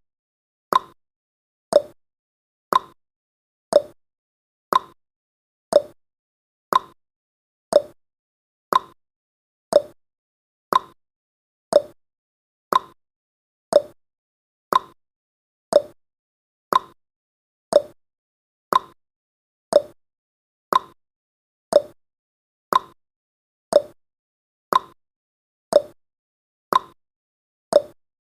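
Countdown timer's clock-tick sound effect: short sharp ticks, about one a second, alternating slightly higher and lower in pitch like a tick-tock.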